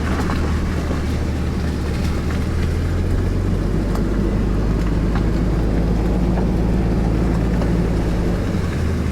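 Car engine and road noise heard from inside the moving car: a steady low drone whose pitch shifts about three seconds in and shifts back near the end.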